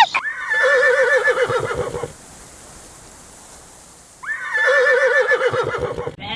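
A horse whinnying twice, each call about two seconds long with a wavering, quavering pitch, the second starting about four seconds in.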